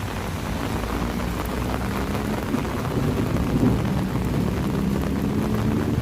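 Steady rain falling, with a low rumble of road traffic beneath it.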